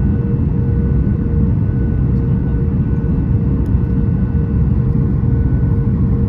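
Steady cabin noise inside a Boeing 737 MAX 8 airliner: a low rumble with a constant hum running through it, no change in level.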